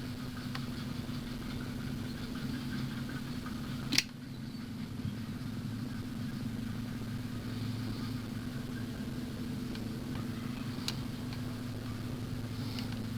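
Steady low electrical hum, with one sharp click about four seconds in.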